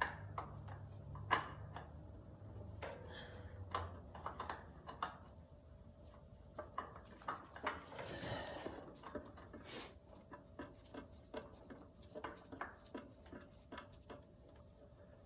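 Irregular small clicks and knocks of hands handling parts while a new oil filter is fitted onto a mower engine.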